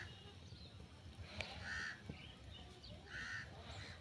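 A bird calling several times outdoors: short calls about a second and a half apart.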